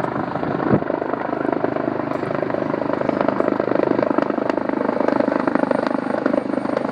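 Police helicopter coming in to land close by, its rotor blades chopping rapidly and steadily over the engine noise, growing a little louder after a few seconds. A brief knock sounds under a second in.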